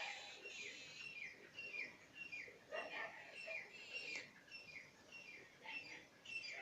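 Birds chirping: a run of short, high, falling notes, two or three a second.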